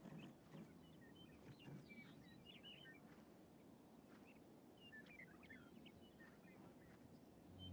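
Faint scattered bird chirps and twitters over quiet outdoor ambience, in two loose clusters.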